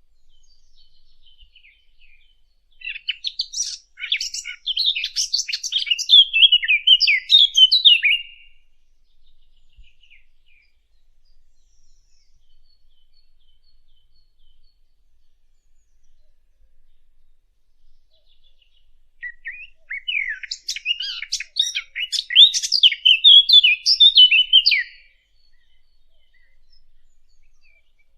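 A songbird singing two long bouts of rapid, jumbled warbling notes, each about five seconds long and ending in a few falling notes, with a quiet pause of about ten seconds between them.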